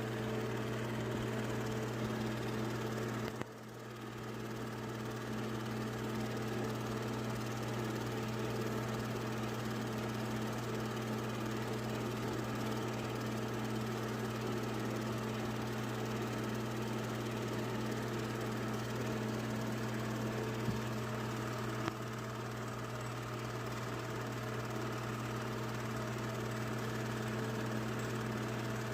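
Steady low hum from a running small motor, unchanging in pitch, with a brief drop in level about three and a half seconds in.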